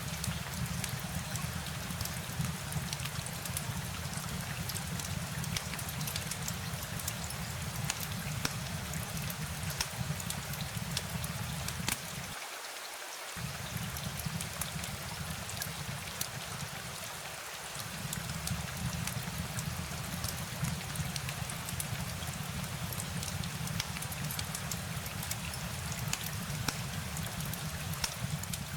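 Steady rain: a hiss with many distinct drops ticking through it. A low rumble underneath cuts out briefly twice near the middle.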